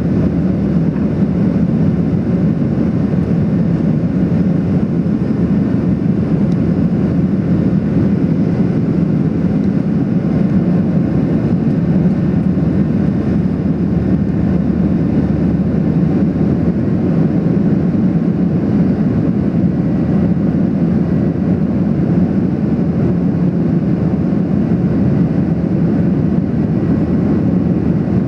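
Steady, unchanging drone of a Boeing 737-800 cabin in flight: the CFM56 jet engines and the rush of air past the fuselage, heard from a window seat, strongest in a low hum.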